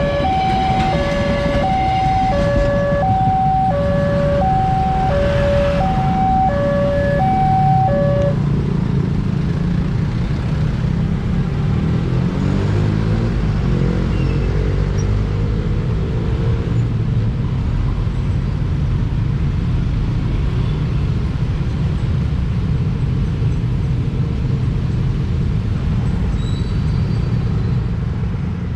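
Level-crossing warning alarm alternating between two tones, stopping about eight seconds in. Road traffic then passes over the crossing, with engines speeding up as vehicles pull away.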